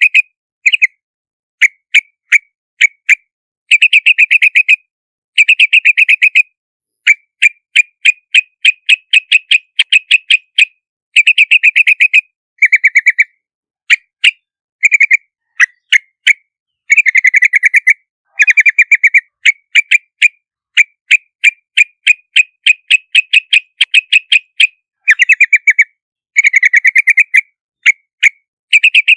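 Yellow-vented bulbul (Pycnonotus goiavier) calling: phrases of rapid, chattering notes repeated every second or so, with short silent gaps between them.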